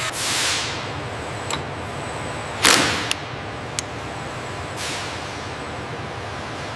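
Steady hiss with several quick whooshes, the loudest a little under three seconds in, and a few sharp clicks.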